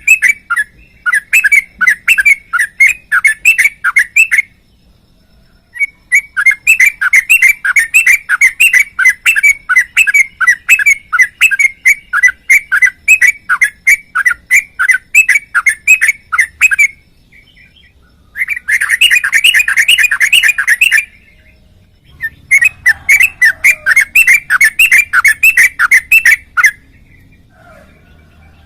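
Sooty-headed bulbul (trucuk) singing in long, rapid runs of repeated whistled notes, in several bouts broken by short pauses about 4, 17 and 21 seconds in, stopping shortly before the end.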